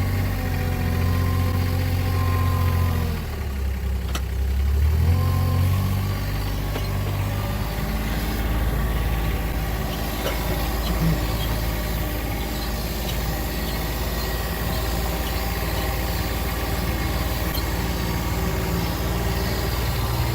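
A motor vehicle's engine running steadily. Its pitch drops about three seconds in and climbs back about two seconds later, as the vehicle slows and picks up speed again.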